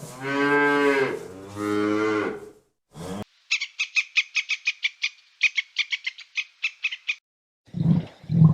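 A cow mooing twice in long calls that rise and fall, then a frog's rapid high clicking call, about six clicks a second for some three and a half seconds. Low, short cooing notes, like a pigeon's, begin near the end.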